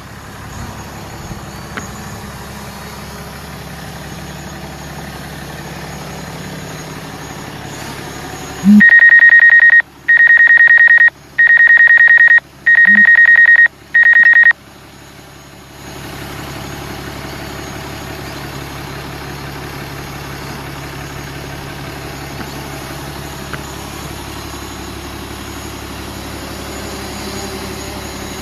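A vehicle's diesel engine running steadily, interrupted midway by five loud electronic beeps at one high pitch, each about a second long with short gaps; the engine sound drops away during the beeps and returns shortly after.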